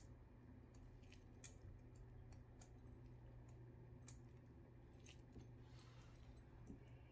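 Near silence: a faint steady low hum with a scatter of faint small clicks.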